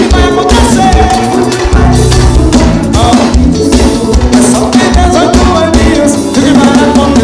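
Live forró band music: drum kit and bass keeping a steady dance beat with keyboard and brass lines over it, during an instrumental stretch between sung lines.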